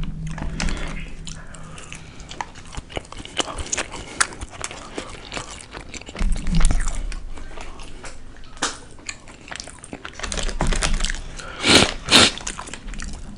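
Close-miked chewing and biting of a beef burrito, with wet mouth clicks and smacks throughout. A low thump comes about six seconds in, and two louder sharp sounds come close together near the end.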